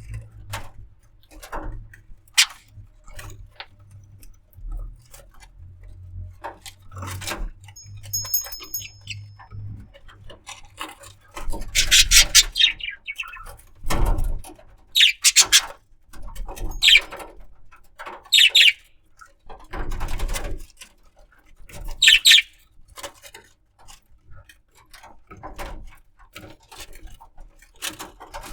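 Budgerigar giving short chirps: a few loud ones in the second half, with a brief thin whistle about a third of the way in. Light clicks and scratches are scattered throughout.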